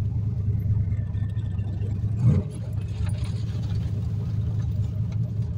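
Turbocharged 351 Windsor V8 in a 1986 Fox-body Mustang running steadily as the car cruises, heard from inside the cabin as a low rumble. A single brief thump sounds about two seconds in.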